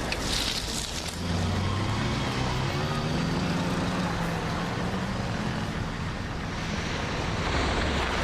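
Road traffic on a city street: cars driving past over a steady hum of road noise, with one vehicle's engine prominent through the middle and another passing near the end.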